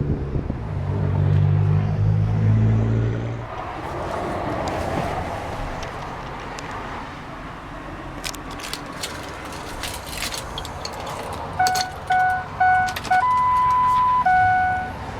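Truck's dashboard warning chime beeping in a regular series, about two beeps a second, starting about three-quarters of the way in. The series is broken by one longer, higher steady tone, then resumes. Before that, a low steady hum fades out after a few seconds, and there are scattered light clicks.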